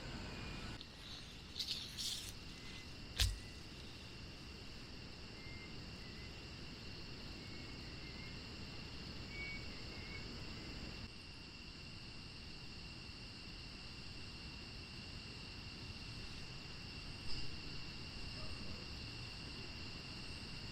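Crickets chirring in a steady, high chorus. A few brief knocks and rustles come from close by, the sharpest about three seconds in and another near the end.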